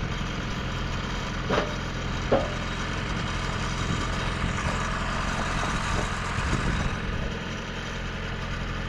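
Portable sawmill's engine idling steadily, running the hydraulics, with two short knocks about one and a half and two and a half seconds in.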